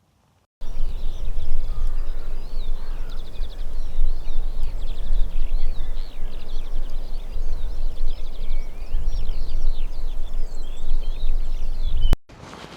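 Wind buffeting the microphone with a loud, uneven low rumble, while a bird sings a continuous high song of warbles and rapid trills. Both start and stop abruptly.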